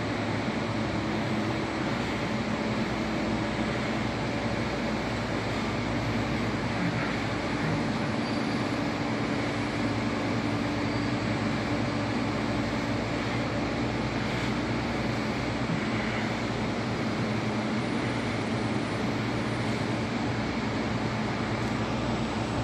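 Steady hum and noise of an MTR East Rail line R-Train electric multiple unit at the platform, holding a few constant low tones without rising or falling.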